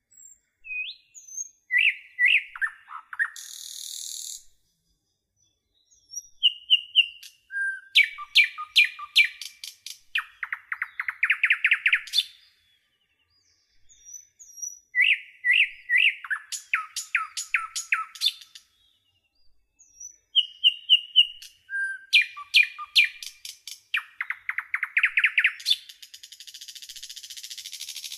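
A songbird singing, repeating a phrase of quick chirps and a rapid trill several times with short silent gaps between. A brief high hiss comes about four seconds in, and a longer one near the end.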